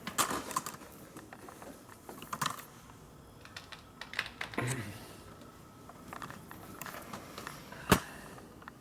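Scattered light metallic clicks and taps from a bent metal oil line and hand tools being handled and test-fitted, with one sharp click about eight seconds in.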